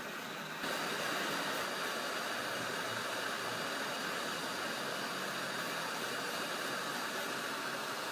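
Hot-air rework station blowing a steady rushing hiss, switching up a little under a second in, as it heats a phone board to lift off the backlight IC.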